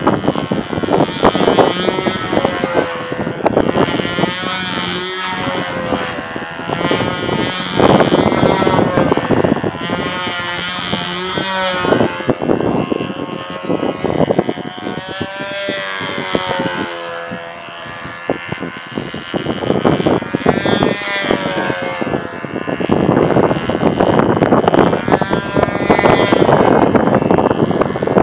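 Small model aircraft engine of a control-line stunt plane running at full power as the plane circles, its pitch and loudness rising and falling every few seconds. Strong wind buffets the microphone throughout, heaviest near the start and near the end.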